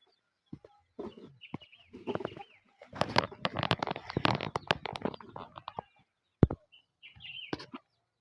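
Chickens clucking and chirping, with a dense run of rapid knocks and rustling in the middle that lasts about three seconds.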